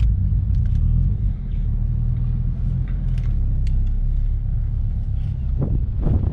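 Mazdaspeed3's turbocharged four-cylinder engine running through a Borla cat-back exhaust, a steady low drone, with a few faint clicks.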